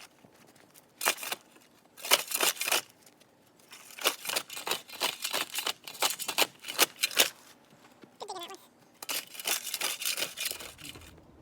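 A series of short, crisp crunching strokes coming in irregular clusters, with a brief gliding squeak about eight seconds in.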